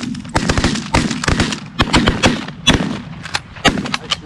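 Several goose hunters' shotguns firing a rapid, overlapping volley, well over a dozen shots in about four seconds, each with a short ringing tail.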